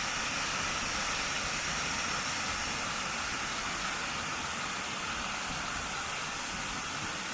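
Oneida Falls, a small forest waterfall, rushing as a steady, even hiss of falling water.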